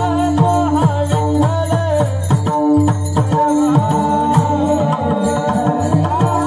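Marathi kirtan music: held, steady notes over hand-drum playing whose bass strokes slide in pitch.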